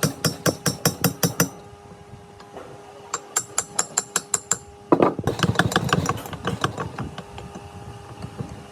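Rapid hammer blows on metal, about five a second, in three runs with short pauses between, over a steady machine hum.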